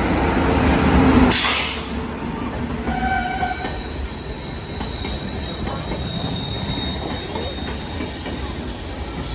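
Long train rolling along the track: a steady rumble of wheels on rails with thin, high wheel squeals. It is loudest in the first second and a half.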